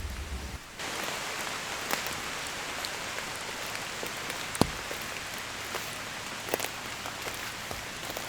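Steady rain falling in a forest, an even hiss with scattered louder drops ticking close by; one sharper drop lands about four and a half seconds in.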